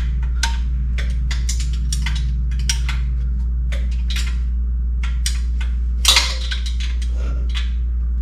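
Short metallic clicks and clinks of a hand wrench working a header bolt, a few a second, with one louder clank about six seconds in, over a steady low hum.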